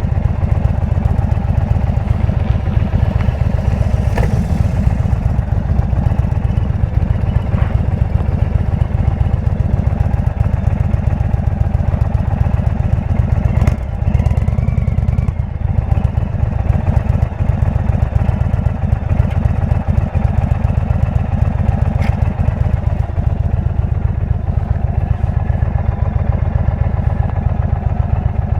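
Indian V-twin motorcycle engine running steadily through a Jekill & Hyde exhaust.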